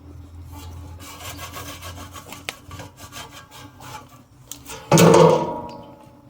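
Scraping and rubbing on the truck's metal, then a single loud ringing clang about five seconds in that dies away over about a second.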